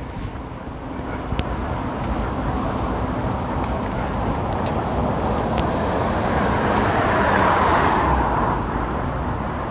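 Road traffic on a busy main road: steady tyre and engine noise that builds to its loudest about seven to eight seconds in as a vehicle passes close, then eases.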